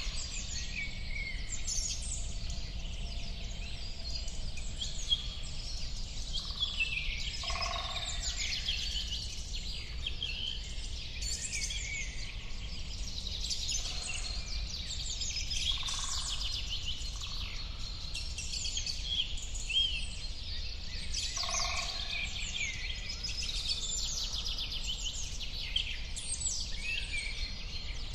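A dense chorus of many small birds chirping and twittering continuously, with a few lower, fuller calls now and then, over a steady low rumble.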